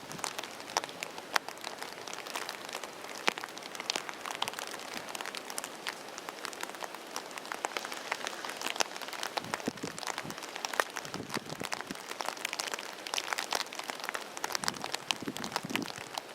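Rain falling steadily, with many separate drops ticking sharply close by.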